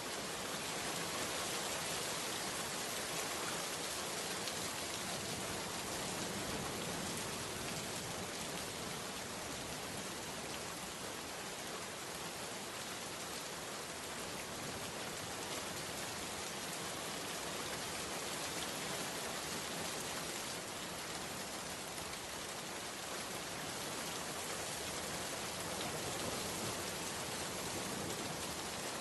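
Steady rain falling on a surface, an even unbroken hiss of drops.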